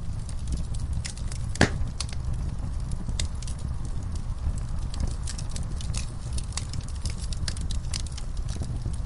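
Wood fire crackling in a fireplace: a steady low rumble of flames under irregular sharp pops and snaps, with one louder pop about a second and a half in.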